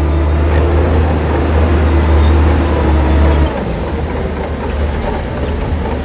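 Heavy diesel earthmoving machinery running with a loud, steady low drone, which drops noticeably in loudness about halfway through.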